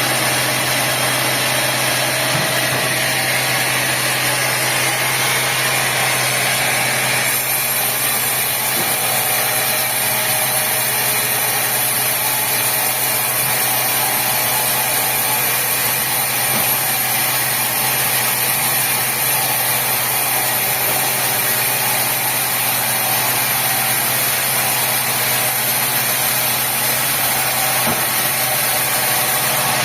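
Sawmill machinery running steadily: a constant engine-like hum under a broad hiss, with the high hiss growing brighter about seven seconds in.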